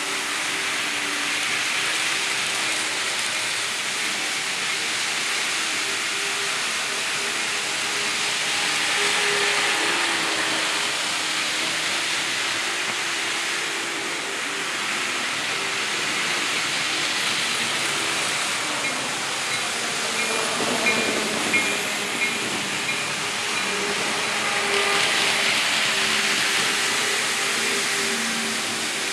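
N-scale model train running around its layout: a steady hiss of small wheels on rails with a faint motor hum, swelling and fading about every eight seconds as the train laps past. A short run of light clicks comes about two-thirds of the way through.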